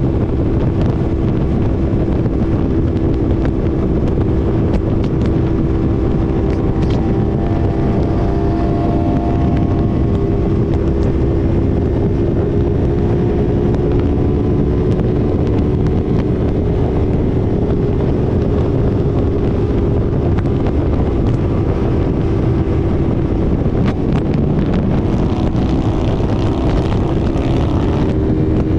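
Yamaha R3's parallel-twin engine running at a steady, high cruise, with heavy wind rush over the microphone. The engine note begins to rise near the end as the bike accelerates.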